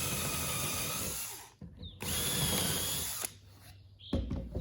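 Electric drill boring pilot holes a little deeper into a wooden board: two short runs of the drill, each about a second and a half, with a brief pause between.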